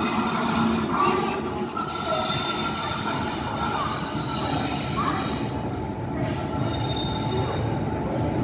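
Indian Railways electric locomotive and its passenger coaches rolling into a station platform, a steady rumble of wheels on rail with a high metallic squeal that comes and goes as it slows.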